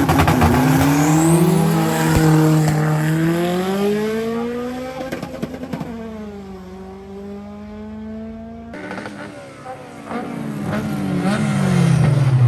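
Race car engine accelerating hard at a drag strip, its pitch climbing through the gears, with a drop at a gear change about six seconds in. A second stretch of high revs follows, and its pitch falls steeply near the end as the car goes past.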